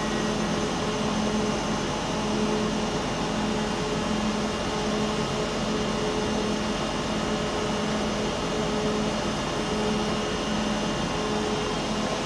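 Steady mechanical hum from a stationary CAF-built Northern passenger train, with a low tone that keeps breaking off and returning about once a second.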